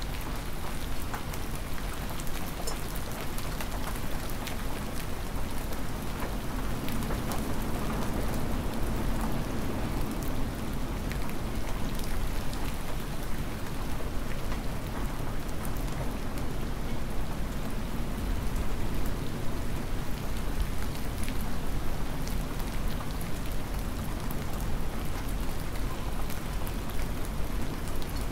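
Hard spring rain falling steadily, with many individual drops ticking close by.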